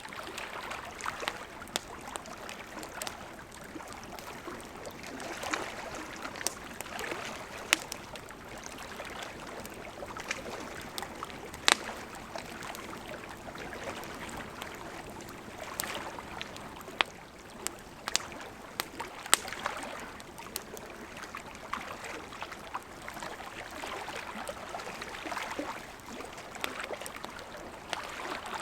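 Wood campfire crackling, with sharp pops scattered irregularly throughout and one louder pop near the middle. Underneath, small lake waves lap at the shore in gentle, swelling washes.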